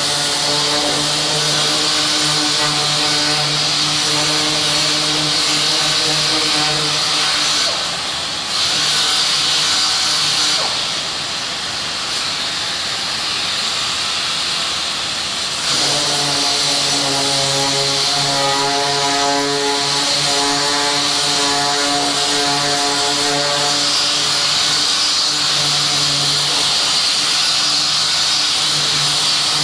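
Power sander dry-sanding body filler: a steady motor hum under a loud sanding hiss. The hum stops for about five seconds in the middle, then starts again abruptly.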